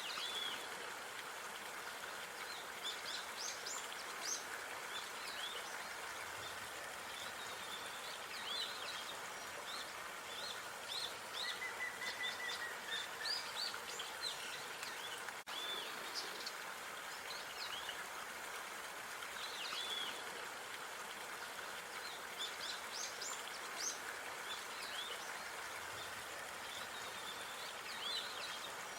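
Small birds chirping and twittering in quick, scattered calls throughout, over a steady outdoor background hiss. Near the middle comes a short, level whistled note.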